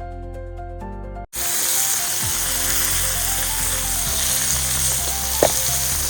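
Fish shallow-frying in hot oil on a tava, a steady loud sizzle that starts abruptly about a second in after a short stretch of background music. One brief knock near the end.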